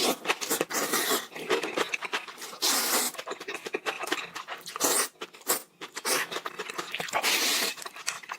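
A person eating close to the microphone: wet chewing with many small mouth clicks, broken by a few longer breathy slurps.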